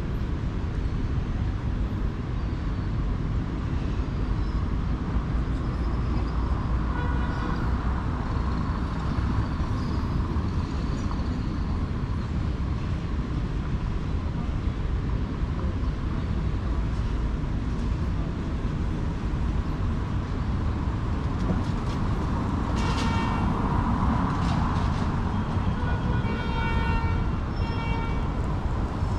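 City street traffic: a steady, low rumble of passing vehicles. Short higher-pitched sounds rise over it about a quarter of the way in and again near the end.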